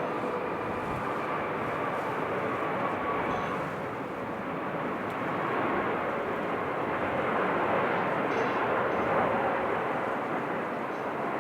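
Jet airliner engines running: a steady rush with faint whining tones, swelling a little in the second half.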